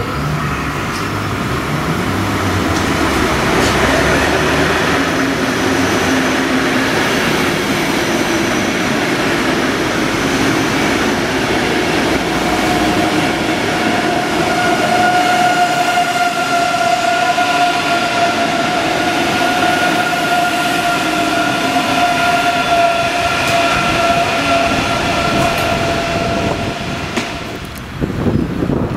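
Deutsche Bahn ICE 3 high-speed electric train running past: a steady rush and rumble of wheels on rail, low-pitched at first. About halfway through, a steady high whine joins it and holds until it stops near the end.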